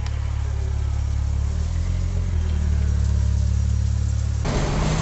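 A motor engine running with a steady low hum whose pitch shifts slightly about a second and a half in, then an abrupt change to a rougher, noisier engine and road sound near the end.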